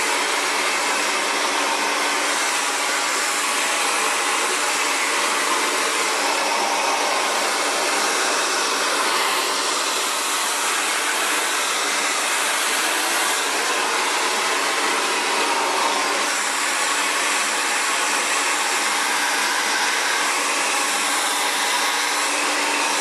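Xtava Allure 2200-watt ionic ceramic hair dryer running steadily, a constant rush of blown air with a faint motor hum underneath, as it dries natural curly hair.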